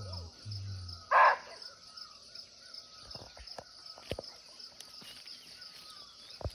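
A barking deer (muntjac) gives a single short, harsh bark about a second in, over a steady pulsing chorus of insects.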